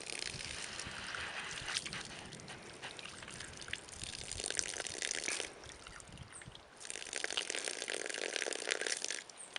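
Water trickling and splashing in a steady rushing hiss. It drops away abruptly about halfway through and comes back about a second later.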